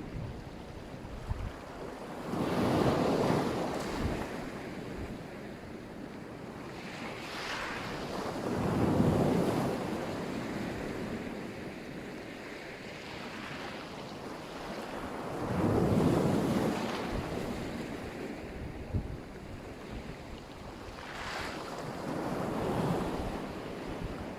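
Black Sea surf: waves breaking and washing up on the shore, four swells of rushing water about six to seven seconds apart. Wind buffets the microphone underneath.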